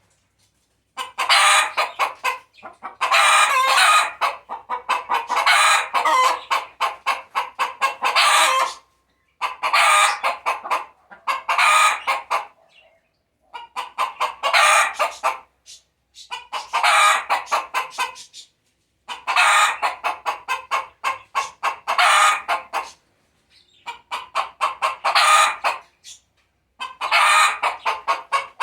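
A hen cackling her laying song: loud repeated bouts of rapid clucks, each a second or two long, with short pauses between them.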